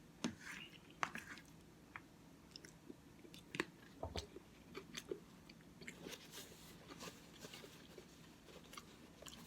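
Faint close-up chewing of a mouthful of Cookie Crisp oatmeal: wet mouth smacks and scattered small clicks at irregular intervals.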